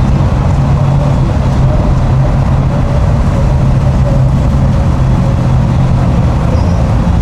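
A motor running steadily at a constant low pitch, with no rise or fall in speed.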